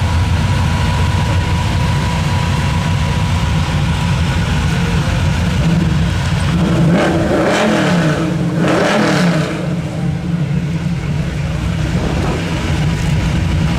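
Drag-racing engines rumbling low and steady, then about six and a half seconds in a louder stretch of engines at full throttle, their pitch sweeping up and down for about three seconds, before the low rumble carries on.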